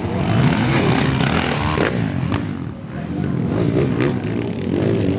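Motorcycle engine running, its pitch rising and falling with the throttle, with a brief dip in loudness a little under three seconds in.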